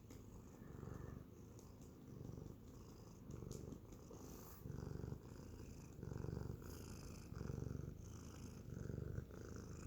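Sphynx cat purring close up: a low rumble that swells with each breath about every second and a quarter, growing louder toward the end.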